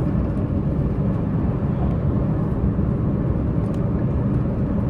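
Diesel multiple-unit express train running at speed, heard from inside the carriage: a steady low rumble of the underfloor diesel engine and the wheels on the track.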